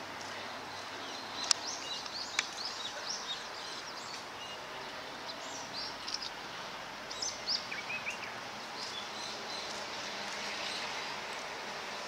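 Small birds chirping in short, high calls over a steady outdoor hiss, with two sharp clicks in the first few seconds.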